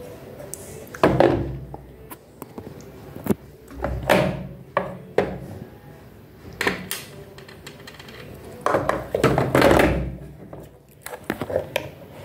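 Irregular thumps and knocks, with some scraping, as washing machine parts are handled and fitted during a repair. The loudest knock comes about a second in, and a longer run of scuffs and knocks comes near the end.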